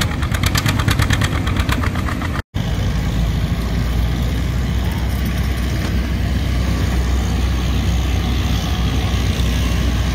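Antique farm tractor engine running hard with a rapid, even firing beat, as in a pull under load. After a sudden cut about two and a half seconds in, a steady low engine hum, as of a tractor idling.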